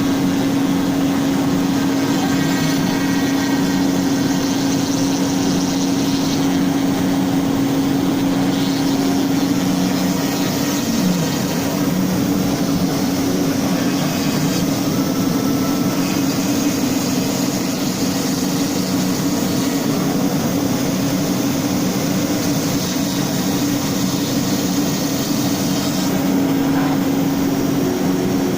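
CNC router spindle running at steady speed while its bit cuts into wood: a steady high hum over continuous cutting noise.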